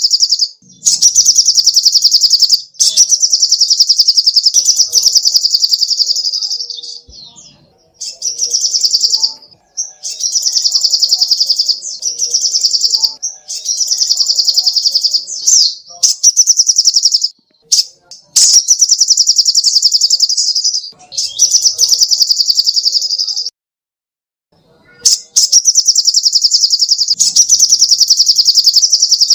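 Sogok ontong (little spiderhunter) singing: very rapid, high-pitched trills of fast repeated notes in bouts of one to three seconds, broken by short pauses, one near-silent gap of about a second and a half a little after two-thirds of the way through.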